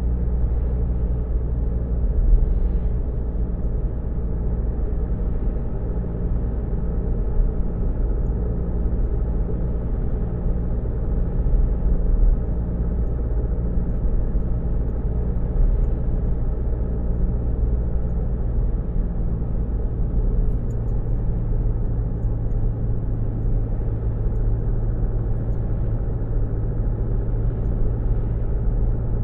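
Car engine running at a steady low pitch, heard from inside the car, with no change in speed through the stretch.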